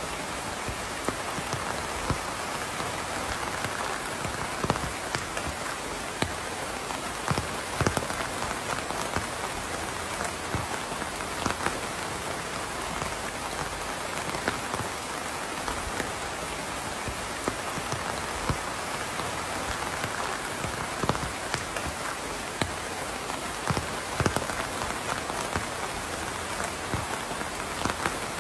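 Steady rain falling on a surface, a constant hiss with frequent individual drops ticking sharply throughout.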